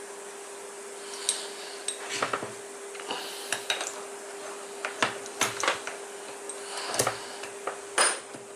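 Small metal tools and parts clinking and knocking against each other in handling, a dozen or so sharp clinks at irregular intervals, the loudest near the end, over a steady faint hum.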